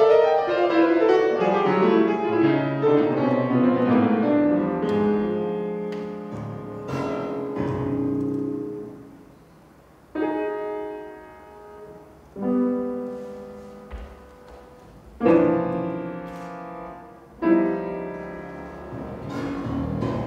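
Solo piano improvisation: a flowing run of many notes that thins out and dies away, then slow chords struck about every two and a half seconds, each left to ring and fade.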